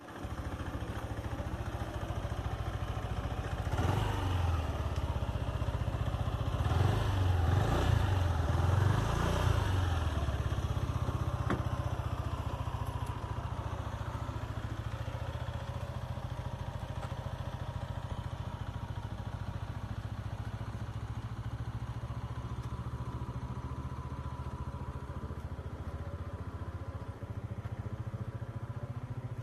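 An engine running steadily with a low drone. It gets louder and busier for several seconds about four to ten seconds in, then settles back to a steady idle-like run.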